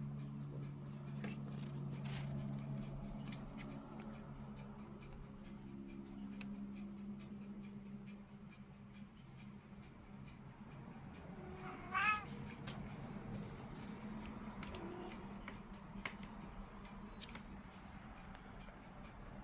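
A cat meows once, briefly, about twelve seconds in. Under it runs a steady low hum with scattered small clicks.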